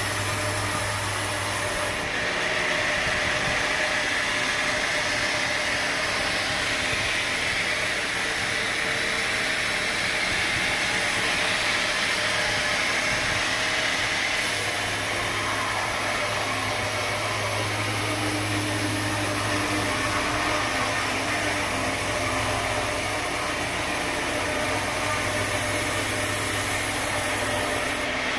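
Sawmill machinery running steadily: a continuous engine hum with broad saw noise and no breaks. The higher part of the sound changes abruptly about two seconds in and again about halfway through.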